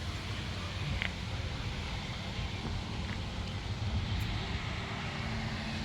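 Vehicle driving along the road: a steady run of engine and road noise.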